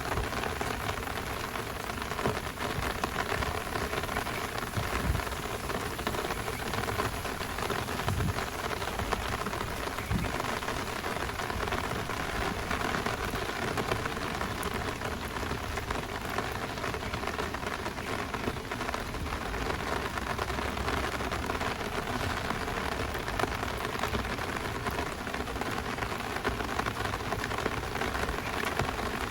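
Heavy rain falling steadily in a downpour, an even hiss of drops with no break.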